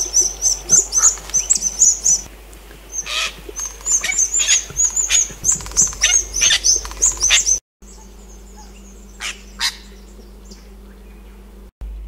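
Little Wattlebird's harsh calls mixed with the rapid, high, sharp chattering of New Holland Honeyeaters, a long quick run of notes that cuts off suddenly about two-thirds of the way through. After that come only a couple of short calls.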